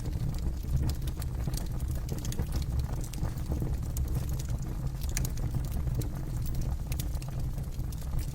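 Campfire burning with a steady low rumble and frequent irregular sharp crackles and pops of burning wood.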